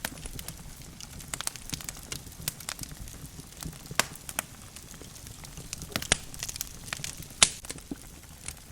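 Wood logs burning in a fireplace, crackling with irregular sharp pops; the loudest pop comes near the end.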